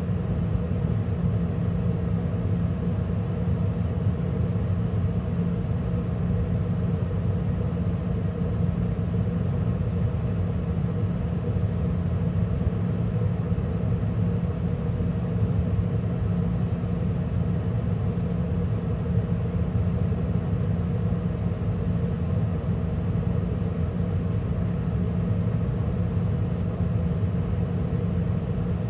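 2013 Carrier gas furnace running mid-cycle, with burners lit and the draft inducer and circulation blower running: a steady, unchanging hum and rumble.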